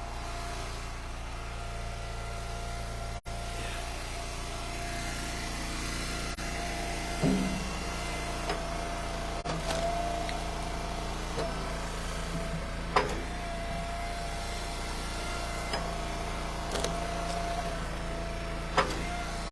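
Eastonmade Ultra log splitter's engine running steadily, with a handful of sharp knocks as split ash pieces fall; the loudest knock comes about seven seconds in.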